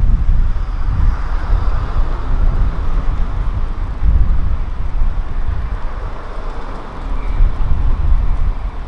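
Outdoor street ambience dominated by wind buffeting the microphone, an uneven low rumble, with traffic noise that swells and fades over the first few seconds as a vehicle passes.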